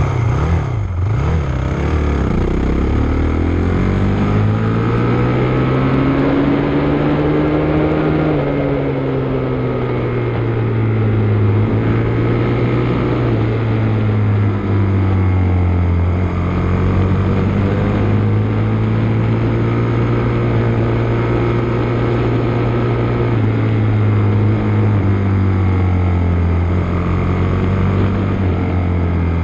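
Motocross dirt bike engine running under way, its pitch climbing and falling slowly over several seconds at a time as the throttle is opened and eased.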